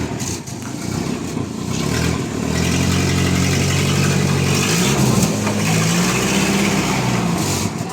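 Jeep A2's engine running, its note weaker for the first couple of seconds, then steady, with a brief rev up and back down around five seconds in.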